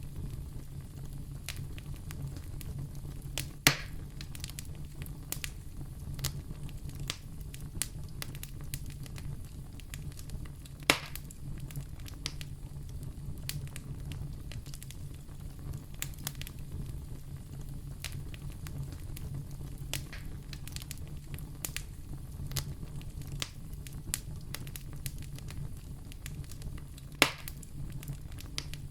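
Wood fire burning in a fireplace: a steady low rumble with frequent small crackles and three louder pops, about 4, 11 and 27 seconds in.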